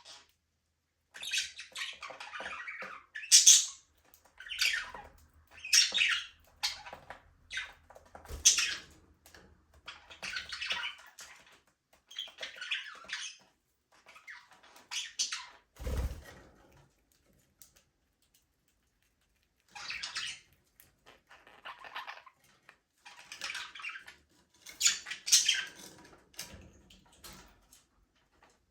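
Budgerigars chirping and chattering in quick bursts separated by short pauses, with a quiet gap of a couple of seconds in the middle. A single thump sounds about 16 seconds in.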